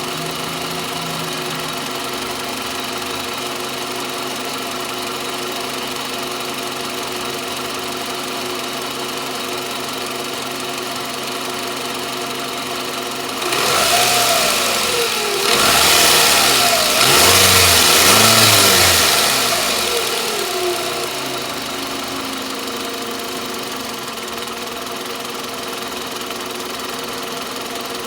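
Toyota Camry XV40's 2.4-litre four-cylinder engine idling with a constant ringing knock from around the alternator. About halfway through, the throttle is blipped several times, the revs rising and falling, before it settles back to idle.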